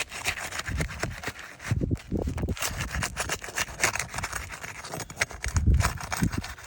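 Flat pry bar working under old asphalt 3-tab shingles, scraping and knocking irregularly as it breaks the seal and lifts the nails of a damaged shingle.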